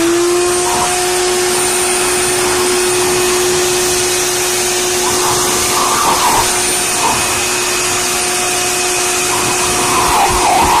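Blow dryer running steadily at full speed: a steady motor whine over the rush of blowing air.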